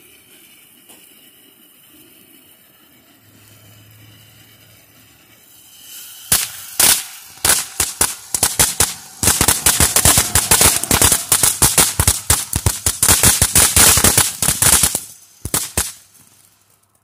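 Consumer ground fountain fireworks: a faint hiss of spraying sparks, then from about six seconds in a loud, rapid run of sharp crackling pops that thins out and stops near the end.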